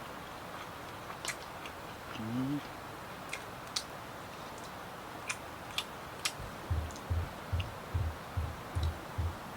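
Steady rain hiss with scattered sharp ticks. From about two-thirds of the way in comes slow, regular chewing of food, about two and a half chews a second.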